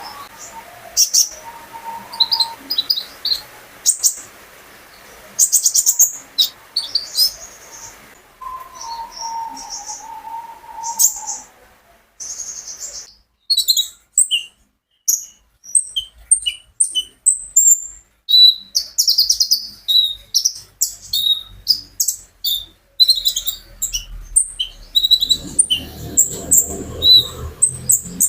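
Kolibri ninja (konin) sunbird singing a fast, varied song of high chirps, trills and quick separate notes. A lower drawn-out whistle comes in briefly twice in the first half, and a low rumble sits under the song near the end.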